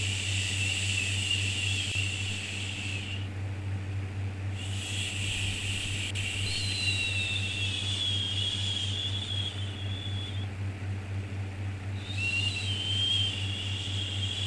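Long drawn-out 'shhh' shushing, of the kind used to settle a baby, repeated three times in breaths of about three to six seconds with short pauses between. A steady low hum runs underneath.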